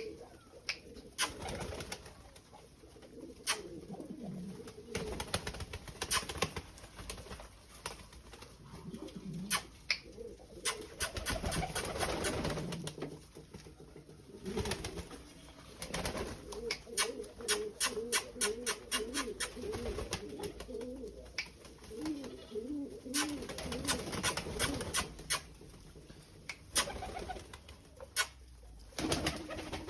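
Pigeons cooing in repeated low, wavering calls, with many sharp clicks and taps between them.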